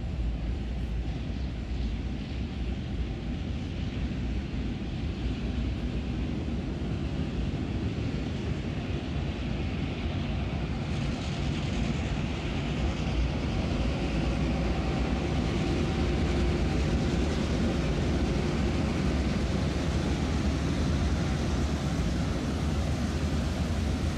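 Electric suburban train approaching and running past, a steady rumble of wheels on the track that grows slightly louder.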